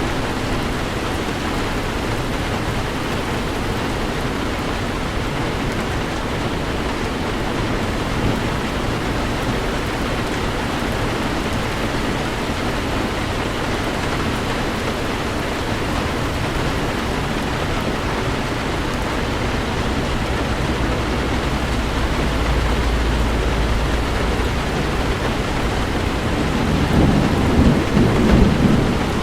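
Steady heavy rain with rolling thunder. The low rumble of the thunder builds over the second half and swells loudest near the end.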